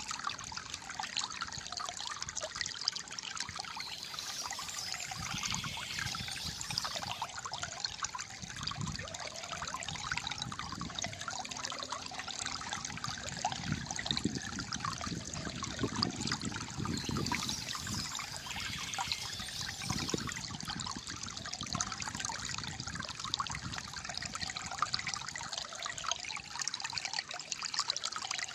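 Flowing water trickling and gurgling steadily, a calm stream.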